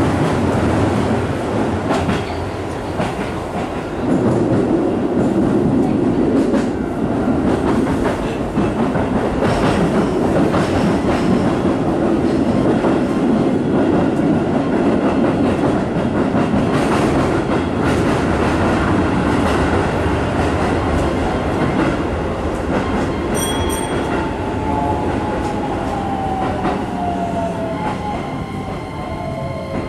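Interior running noise of a Keisei 3000-series electric commuter train: a steady rumble with wheel clicks over rail joints. In the last several seconds the noise eases and a motor whine falls in pitch as the train brakes into a station.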